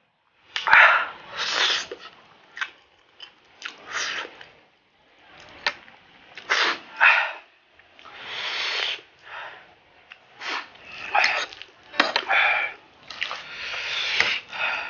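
A person slurping and chewing spicy Buldak ramen noodles: a string of short, noisy slurps and sharp breaths, with wet mouth clicks between them.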